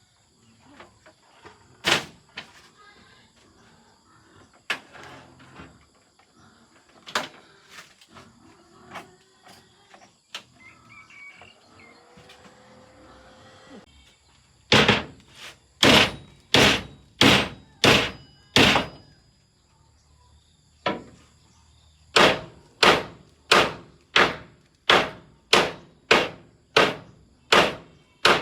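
Repeated hammer blows. A few scattered knocks come first; from about halfway in they turn into two steady runs of strikes, about one and a half a second, with a short pause between.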